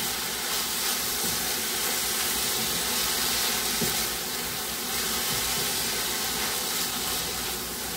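Salted chopped spinach sizzling and hissing steadily in hot oil in a kadhai as it wilts down, with the occasional soft scrape of a wooden spatula stirring it.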